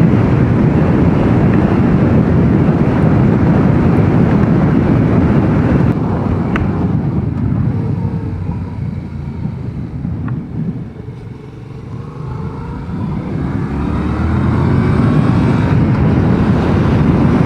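Yamaha MT-07's parallel-twin engine running on the move. It eases off and quietens from about six seconds in, then builds again with a rising pitch as it accelerates over the last few seconds.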